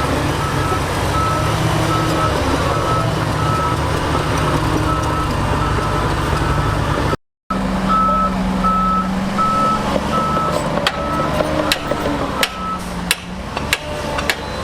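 Heavy diesel machinery running with a reversing alarm beeping steadily about twice a second, from a dump truck or bulldozer backing up. The sound drops out briefly about seven seconds in; near the end the beeping stops and a few sharp metallic clanks follow.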